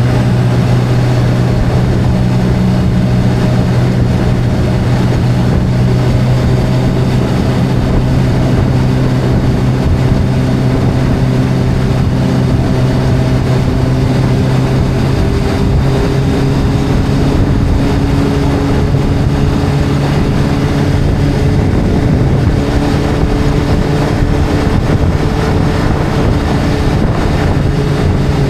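Motorcycle engine running at a steady cruise, its pitch drifting slowly up and down with no sharp revving or gear changes.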